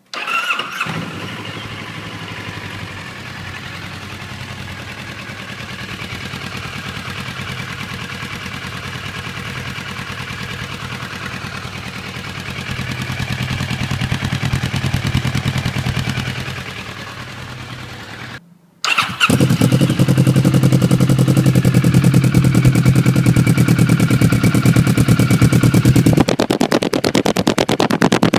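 2011 Kawasaki ER6n's parallel-twin engine starting and idling steadily, its level swelling a little and easing off. After a short break it starts again and idles much louder and fuller, as heard through the other of its two exhausts: the stock silencer and an MTC slip-on.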